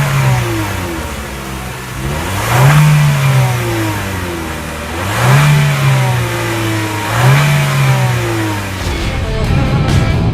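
2014 Chevrolet Sonic LTZ's 1.4-litre turbocharged four-cylinder engine revved in short throttle blips, four times, each rising in pitch and falling back, a couple of seconds apart. Near the end the engine drops back.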